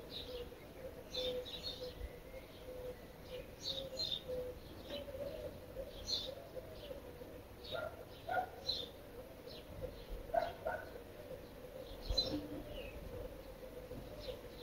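Birds chirping in short, high calls about once a second, with a few lower calls, over a faint steady low hum.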